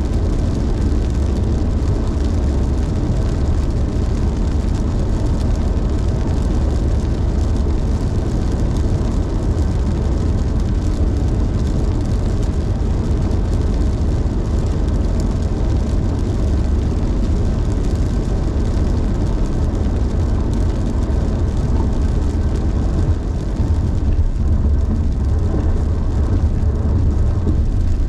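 Car driving on the road: a steady low rumble of road and engine noise with no breaks.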